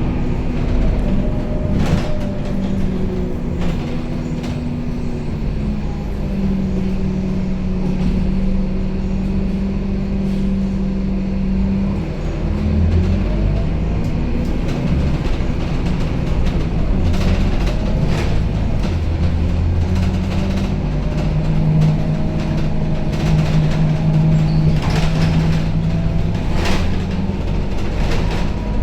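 Scania K270UB city bus in motion, heard from inside the passenger cabin: the engine drone steps up and down in pitch as the bus pulls away, changes gear and slows, with a faint rising and falling whine and scattered rattles and clicks from the body and fittings.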